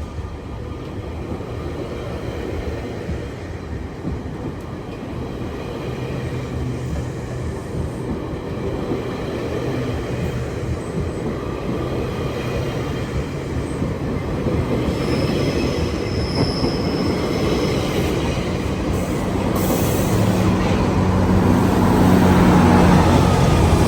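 A train running on the rails, growing steadily louder toward the end, with a thin high wheel squeal about two-thirds of the way in.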